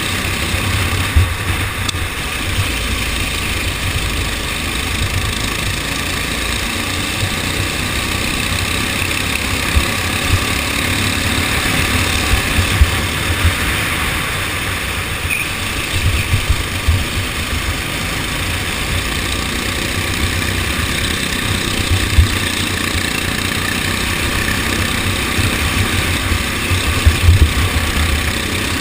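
Go-kart engine running steadily through a race, with irregular low thumps underneath.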